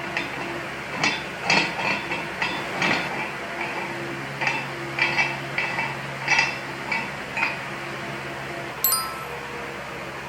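Dishes and utensils clinking: about a dozen light, irregular clinks, each with a brief ring, and one sharper clink near the end.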